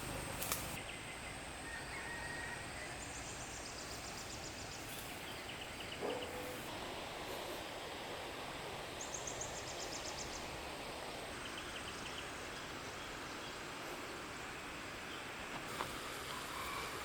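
Outdoor ambience: a steady hiss of background noise with a few short, high, rapidly pulsed chirping trills and a soft knock about six seconds in.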